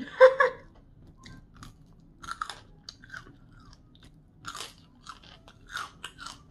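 Close-up chewing and crunching of crisp fried food (seasoned curly fries), with irregular short crackles as it is bitten and chewed. A brief vocal sound comes right at the start.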